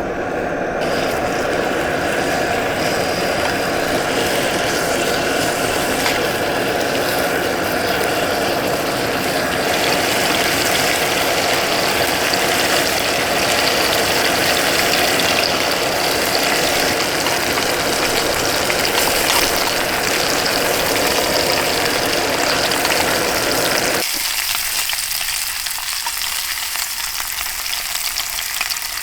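Food sizzling and frying in a pan, a steady loud crackling hiss over a lower rushing sound. About 24 seconds in, the lower rushing part cuts out abruptly and the thinner sizzle carries on.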